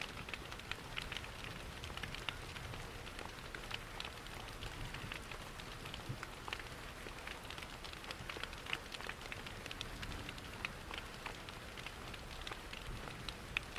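Steady rain with a wood fire crackling in a fireplace: many small, sharp pops scattered over an even hiss, with a low rumble underneath.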